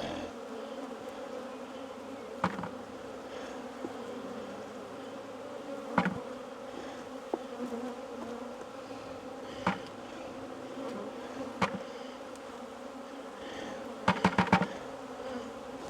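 Swarm of honey bees buzzing steadily around an opened hive, with sharp knocks every few seconds and a quick rattle of several knocks near the end.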